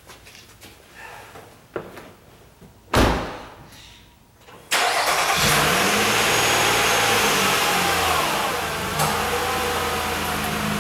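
A car door shuts with a thump about three seconds in. Just under two seconds later the car's engine is started, revs up briefly and settles into a steady idle.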